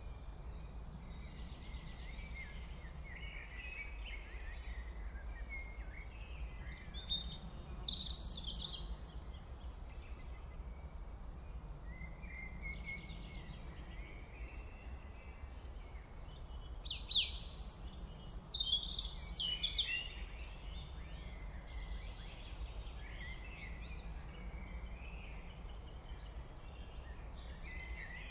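Small birds chirping on and off, with flurries of calls about 8 seconds in and again around 17 to 20 seconds, over a steady low hum.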